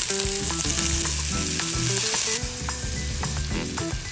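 Sliced shallots and onion sizzling in hot oil in a cast-iron skillet. The sizzle is strongest for the first couple of seconds and eases off about two and a half seconds in.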